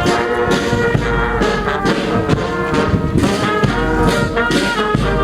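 Brass music with a steady beat: trumpets and trombones playing held notes.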